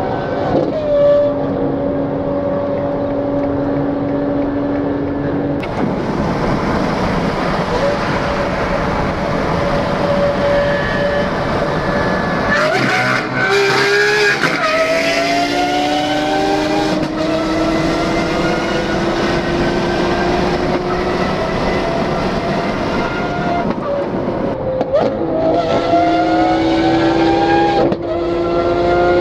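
Lamborghini Aventador SVJ's 6.5-litre V12 through a Gintani exhaust, pulling hard at motorway speed. Its pitch climbs slowly and drops back at several upshifts, over wind and road noise.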